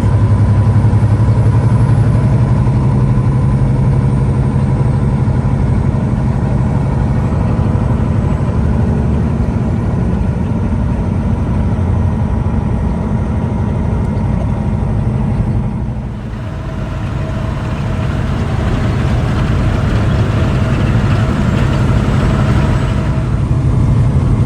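A semi truck's diesel engine runs steadily on the move, with road noise. About sixteen seconds in, the sound dips briefly, then a hiss builds for several seconds before easing off near the end.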